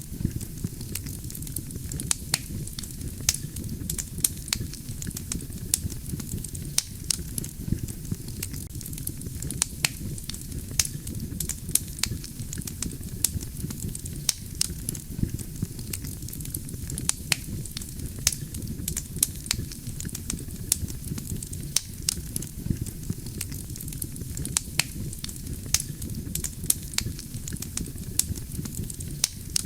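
Wood campfire burning: a steady low rumble of flames with frequent sharp, irregular crackles and pops from the burning logs.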